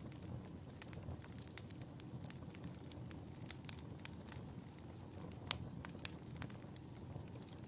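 Wood fire crackling in a fireplace: frequent irregular snaps and pops over a steady low rumble, with the sharpest snap about five and a half seconds in.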